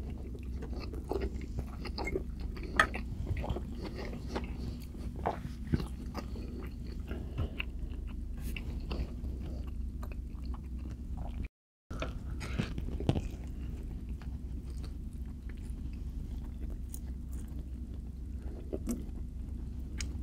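A person chewing and eating food close to the microphone: many small, irregular wet mouth clicks, over a steady low hum. The sound cuts out briefly about halfway.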